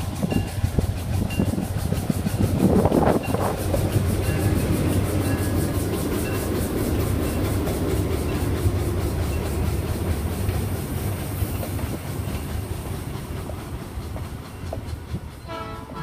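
Diesel-hauled train passing: a steady low engine drone with wheels clicking over the rail joints, loudest about three seconds in, then slowly easing off.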